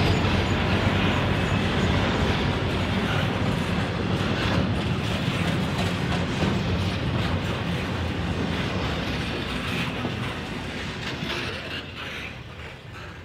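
A train rolling past on the rails, its sound steadily fading away over the last few seconds.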